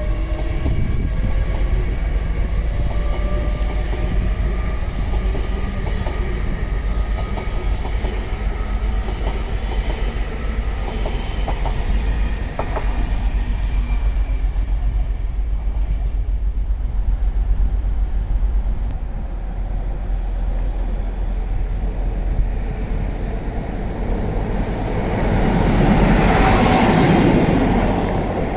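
LNER Class 800 train moving through the station, its motors whining in a pitch that slides during the first few seconds. Heavy wind rumbles on the microphone throughout, and a louder rushing swell comes near the end.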